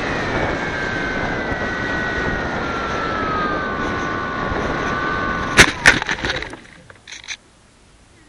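Bixler 2's electric pusher motor whining over heavy wind rush, its pitch falling steadily as it throttles down, then two sharp knocks and a clatter about five and a half seconds in as the plane hits the ground, after which the motor and rush stop.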